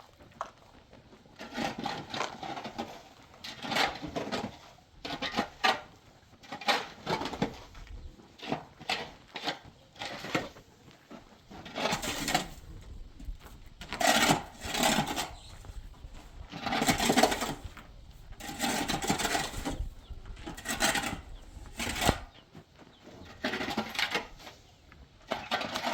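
Repeated scraping of a hand tool working wet cement mortar, in irregular strokes of about a second each with short pauses between them.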